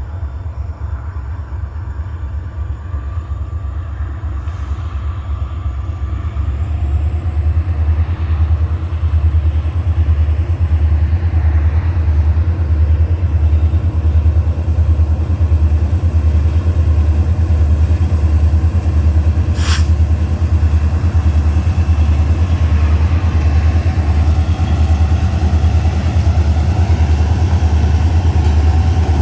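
EMD SD40-2 diesel-electric locomotives, with 16-cylinder two-stroke EMD 645 engines, running as the train approaches. The low engine sound grows louder over the first several seconds and then holds steady, with a single sharp click about twenty seconds in.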